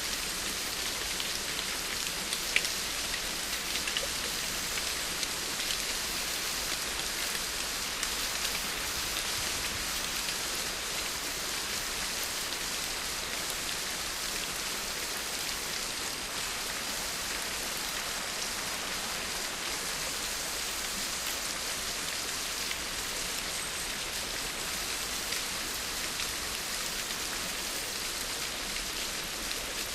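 Steady rain falling on a surface: an even hiss with occasional separate drops ticking.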